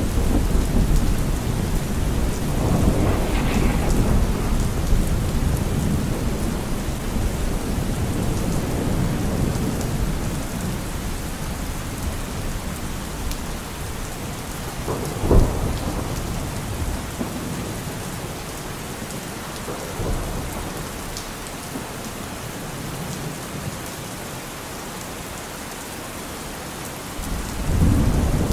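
Steady rain with rolling thunder: a low rumble fading over the first several seconds, a sharp thunderclap about halfway through, and a fresh rumble building near the end.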